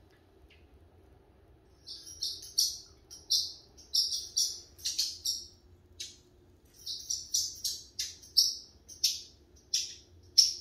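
A small bird chirping in quick, high, short calls. The calls start about two seconds in and come in two runs with a brief pause between them.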